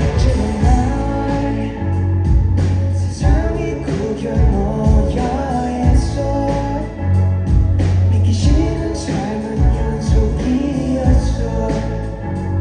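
Live rock band playing with a singer over bass, guitar and a steady drum beat.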